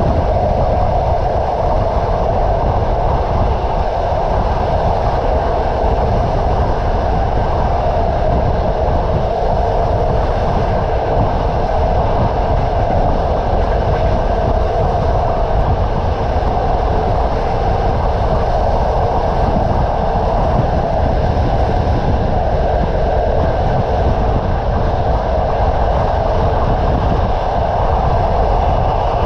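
Railway carriage wheels running on the rails, a steady rumble with the clatter of the wheels.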